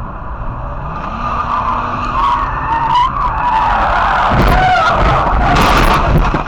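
A vehicle skidding with its tyres squealing, a wavering squeal that grows louder, with sharp knocks about four and a half and five and a half seconds in.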